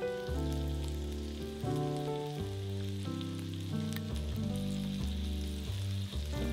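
Chicken thighs sizzling in hot oil in a frying pan, under background music with a steady bass line and held notes that change every second or so.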